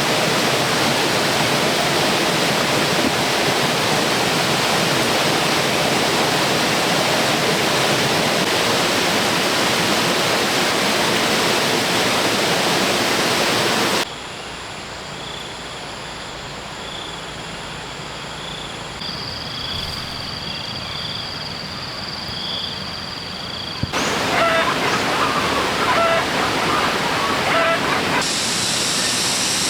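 A loud, steady rushing noise like flowing water cuts off suddenly about halfway through. Quieter outdoor ambience with thin, steady high-pitched tones follows, then scattered short chirps near the end.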